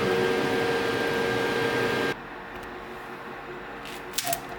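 Steady machine hum with a couple of steady tones, cutting off abruptly about two seconds in, then quieter room noise with a brief click near the end.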